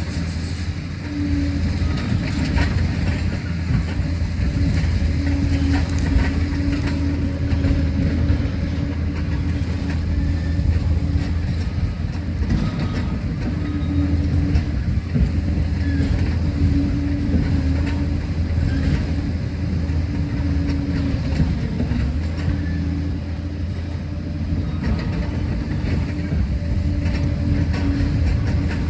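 Liebherr PR 746 crawler dozer at work: the diesel engine runs with a steady low drone while the steel tracks and blade clank and rattle irregularly.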